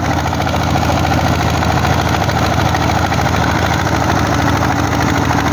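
Single-cylinder diesel engine of a công nông (Vietnamese four-wheeled farm tractor) running steadily with a rapid, even beat.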